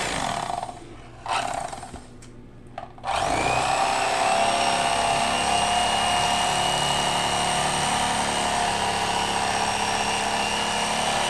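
Electric fillet knife, a Mister Twister Piranha, running with a steady motor whine as it cuts the skin off a catfish fillet. It stops about a second in, gives one short burst, then starts again with a rising whine about three seconds in and runs evenly from there.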